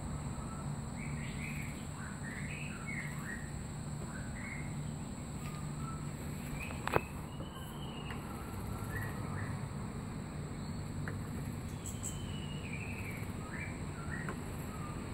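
Magpie robin giving short chirps and whistled notes at irregular intervals, with a falling whistle near the end, over a steady low hum; a single sharp click about halfway through.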